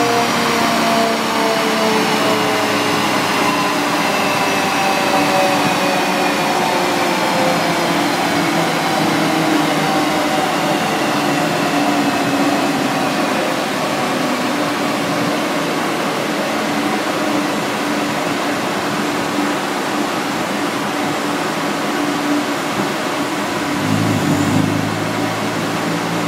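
Mini Cooper S R56 turbocharged four-cylinder on a chassis dyno, running with a straight-through aftermarket exhaust: after a pull the engine and dyno rollers wind down, pitch falling slowly over the first half, then running steadily. Near the end the revs begin to rise again.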